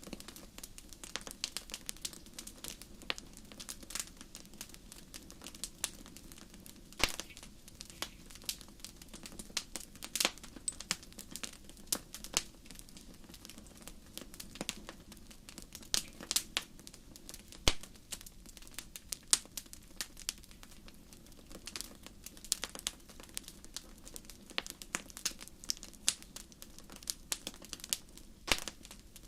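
Fire crackling: a dense, irregular run of small pops and snaps, now and then a louder crack, over a faint steady low hiss.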